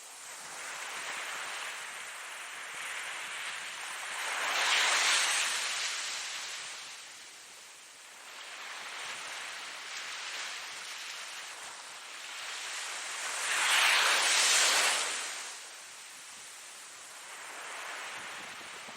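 Ocean waves rising and falling in slow surges, two of them loudest, about nine seconds apart, with gentler washes between.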